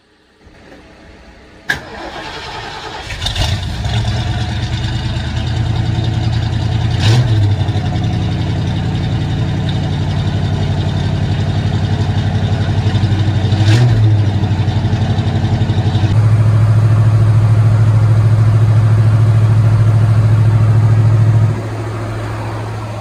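1972 Ford Mustang Grande's engine starting from cold about three seconds in, then running steadily at idle. Two sharp knocks cut through it. The engine gets louder about two-thirds of the way through and drops back near the end.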